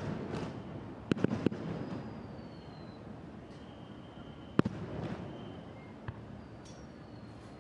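Aerial fireworks shells bursting with sharp bangs: one at the start, a quick run of three about a second in, and another just past the middle. A rumbling haze and thin high whistling tones lie between the bangs.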